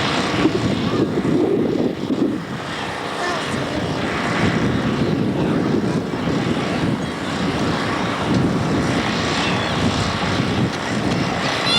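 Airplane engines running steadily as an aircraft flies by, a loud even noise.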